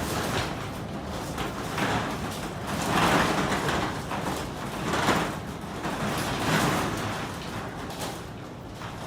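Strong typhoon wind blowing across the microphone, rising and falling in several gusts.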